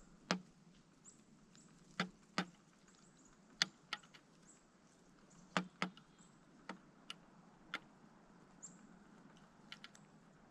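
Pileated woodpecker pecking at a suet feeder: a dozen or so irregular sharp knocks, several in quick pairs.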